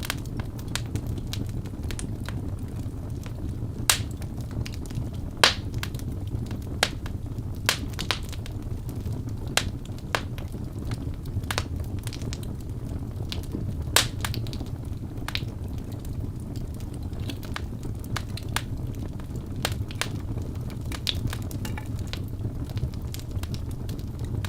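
Birch logs burning in a fireplace: a steady low rumble of flame with irregular crackles and several sharper pops.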